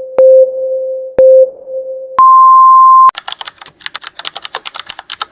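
Electronic countdown beeps: short low beeps a second apart, then one longer beep an octave higher, followed by a fast run of sharp clicks.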